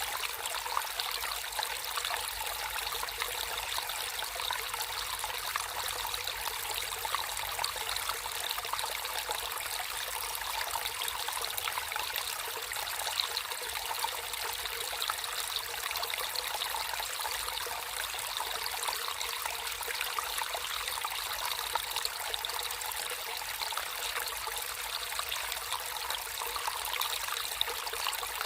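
Natural flowing water trickling steadily in a small stream.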